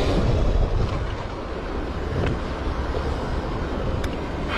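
Motorcycle engine running with an uneven low rumble and mechanical noise: the unexplained fault the rider asks a mechanic to diagnose.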